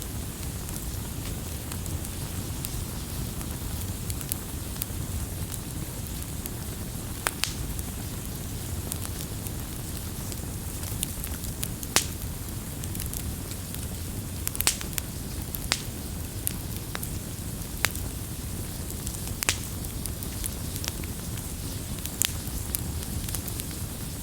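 Campfire burning with a steady low rush and irregular sharp crackles and pops from the burning wood, a dozen or so standing out clearly.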